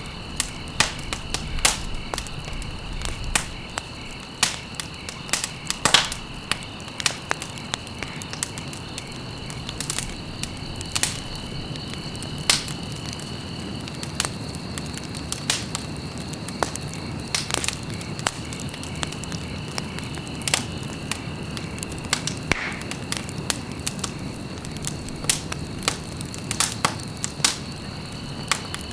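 Wood fire burning in a fireplace, crackling with frequent sharp, irregular pops over a low steady rumble of the flames.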